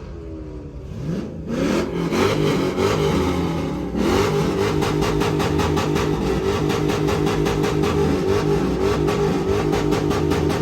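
Vehicle engine revving: the pitch climbs about a second in, then holds steady at high revs.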